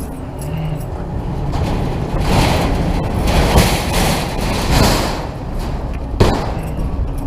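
Tow truck engine running with a steady low rumble, while rushes of noise swell and fade several times. There is a sharp knock about six seconds in.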